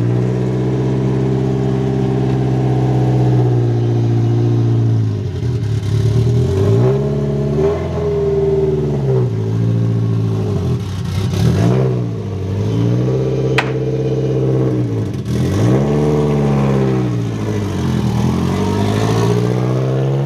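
Car engine running at a steady pitch, then dropping and rising again several times, as if the throttle is lifted and reapplied while driving. A brief sharp click comes about two-thirds of the way through.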